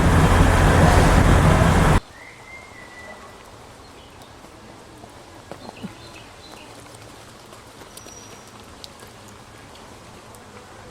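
A train running loudly for about two seconds, then a sudden cut to quiet forest ambience. Just after the cut there is a short bird call, followed by scattered faint ticks and drips.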